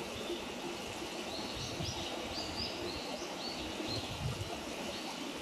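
A small bird chirping a quick run of short high notes, from about a second in until past the middle, over a steady outdoor hiss.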